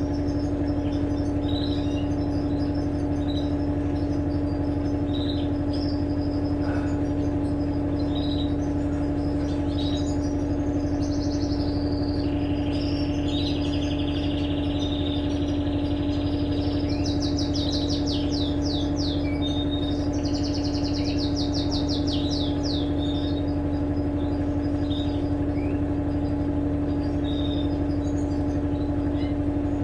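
Electrolux LTE12 washing machine running with a steady, unchanging hum. Birds chirp throughout, with a few longer trills in the middle.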